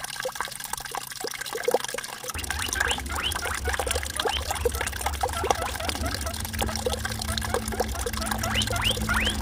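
Water trickling and gurgling as it flows out from among rocks, a steady run of small bubbling plops. A low rumble joins in about two seconds in.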